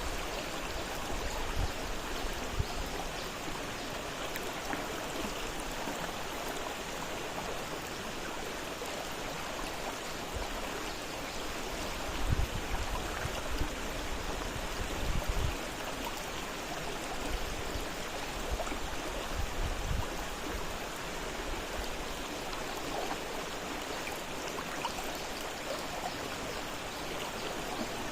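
River water flowing fast: a steady rushing of a stream over rocks. A few brief low bumps stand out around the middle.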